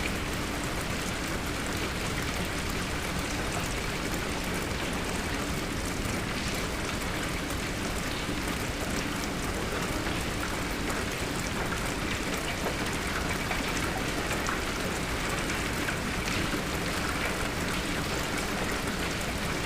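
Steady, even rainfall with scattered individual drop ticks, unchanging throughout.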